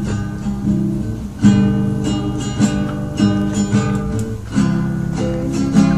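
Acoustic guitar playing a slow, strummed intro of sustained chords, the chord changing about a second and a half in and again near the end, leading into a ballad.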